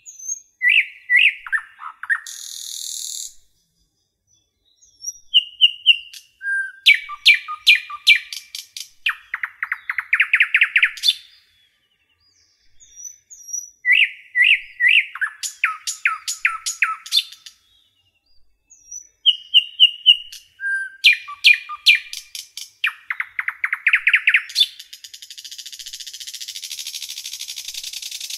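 A bird singing in repeated bouts of quick chirps and rapid trills, each bout several seconds long, with pauses of a second or two between them.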